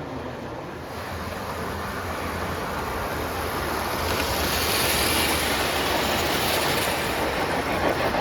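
O gauge model train running on its track with a steady rolling rumble of wheels on rail, growing louder as it comes closer.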